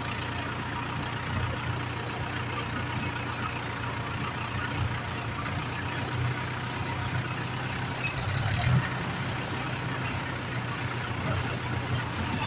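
Tractor diesel engine running steadily, with a brief hiss about two-thirds of the way through.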